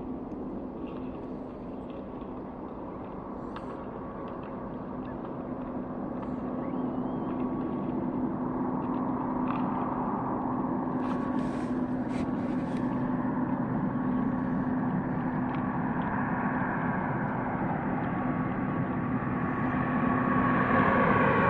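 Propeller airliner on landing approach: a steady engine and propeller drone that grows louder as the plane nears, swelling further near the end as the pitch of its tones begins to shift.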